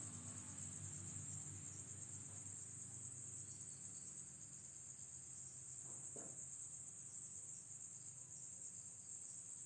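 Crickets chirping in a steady, high-pitched chorus, with a faint low rumble underneath.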